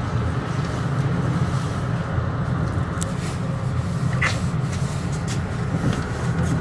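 Metro-North commuter train running along the track, a steady low rumble with scattered clicks from the wheels on the rails. A short rising squeal cuts in about four seconds in.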